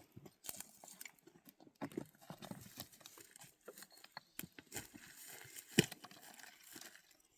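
Livestock moving about: an irregular clatter of clicks and knocks, with one louder knock about six seconds in.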